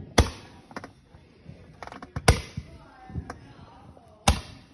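Fireworks going off: three sharp bangs about two seconds apart, with smaller pops between them.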